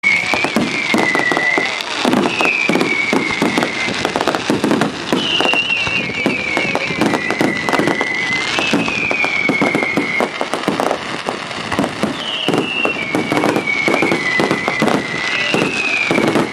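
Fireworks display: a dense, continuous run of bangs and crackles, with a high whistle that falls in pitch repeating every second or two.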